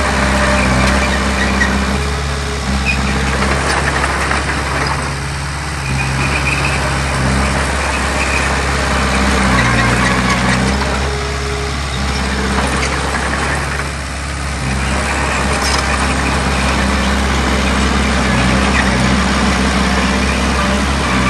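Heavy diesel earthmoving machinery running, its deep engine note steady with a few slight dips and rises in load.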